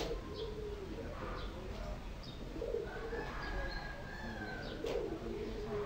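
Birds calling: low cooing with short high chirps, and one held higher note in the middle.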